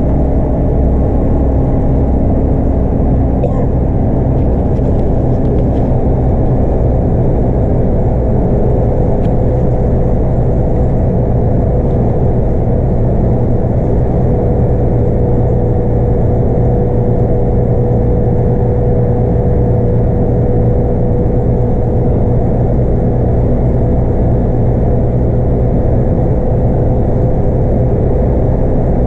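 Scania DC9 8.9-litre five-cylinder diesel and ZF Ecomat automatic gearbox of a Scania K230UB bus running steadily under way, with road noise, heard inside the bus. A steady whine holds a constant pitch from about a third of the way in.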